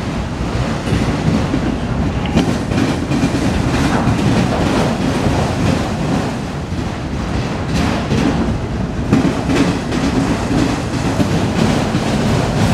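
Autorack freight cars rolling past as the train backs up: a steady rumble of steel wheels on rail, with scattered clicks and clanks from the wheels and couplers.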